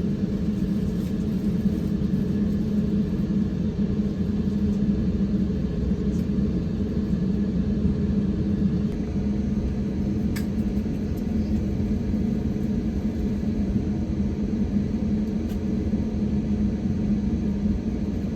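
Steady low rumble of an Airbus A350-900's engines and airflow heard inside the passenger cabin, with a constant hum under it.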